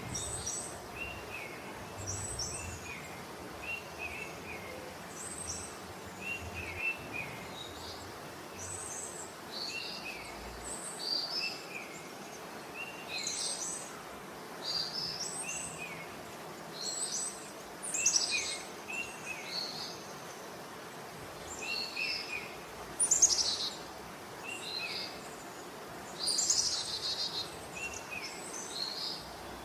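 Several small birds calling and singing: short high chirps repeating every second or two, with a few louder, longer phrases, over a faint steady background hiss.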